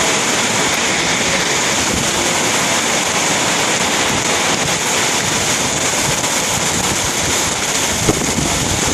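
Very heavy rain pouring down in a loud, steady hiss, with a short knock a little after eight seconds in.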